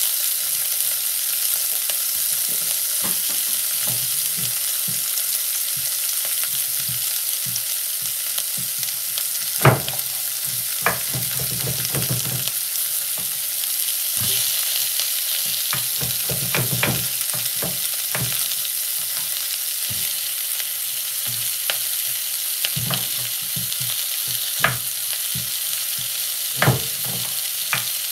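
Garlic, onion and fresh herbs sizzling steadily in an aluminium pot, with a few scattered knocks as cubes of pumpkin are dropped in.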